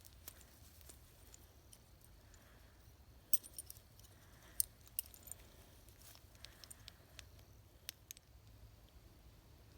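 Scattered faint clicks and taps of camping gear being handled. The sharpest come at about three and four and a half seconds in, with a few more after them.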